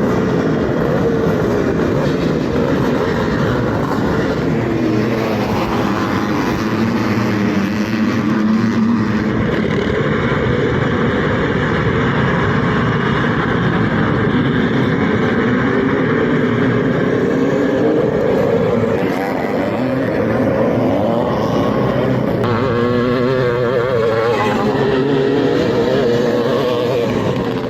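Vintage two-stroke motocross bikes racing, their engines revving up and down with a constantly wavering pitch.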